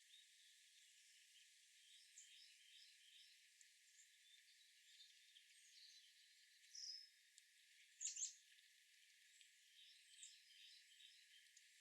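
Faint outdoor birdsong: small birds chirping in short, high notes over a steady hiss. One louder call comes about seven seconds in, followed by two louder chirps just after.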